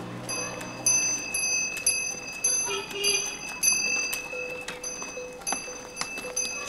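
A small metal bell ringing over and over, struck about twice a second, each strike leaving a bright ring that hangs on.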